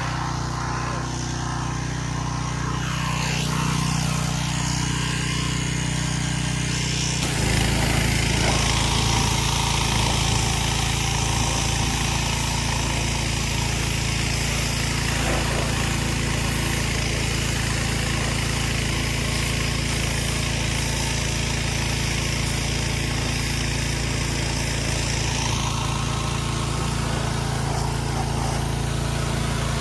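Small-engine pressure washer running steadily. About seven seconds in the engine note changes and the hiss of the water spray comes in, carrying on to the end.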